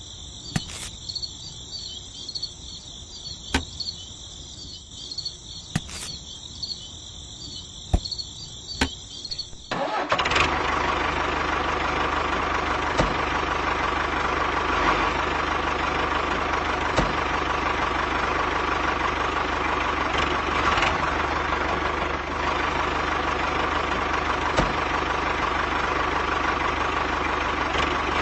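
Crickets chirping with a few sharp clicks, then about ten seconds in a small motor starts and runs steadily with a constant whine and a low hum.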